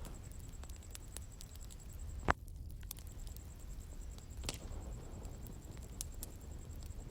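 Wood bonfire burning with a low rumble and scattered sharp crackles and pops, one loud snap a little over two seconds in.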